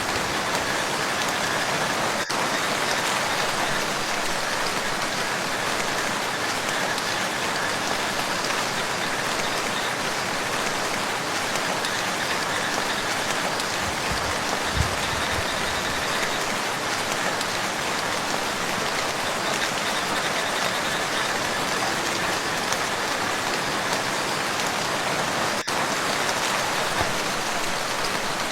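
Steady rain falling on a lake, a dense, even hiss of drops on water, with a brief low thump about halfway through.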